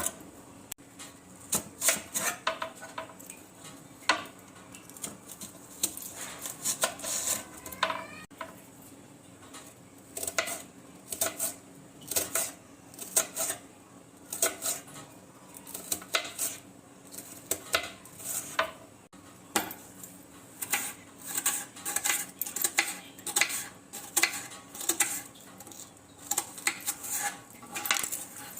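Metal utensil clinking and scraping against a dish, in repeated short clusters about once a second, some clinks ringing briefly, with a couple of short pauses.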